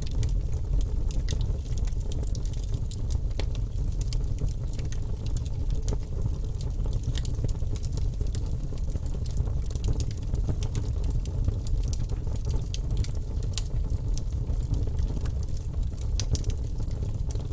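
Wood fire crackling in a fireplace: many irregular sharp crackles and pops over a steady low sound of the burning.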